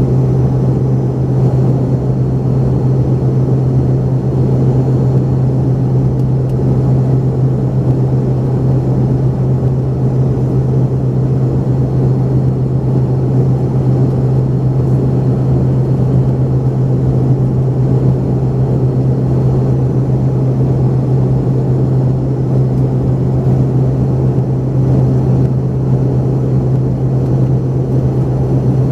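Steady cabin drone of an Embraer ERJ-145XR in flight, heard inside the cabin: the rear-mounted Rolls-Royce AE3007 turbofans and rushing air give a loud, unbroken low hum with faint high whining tones above it.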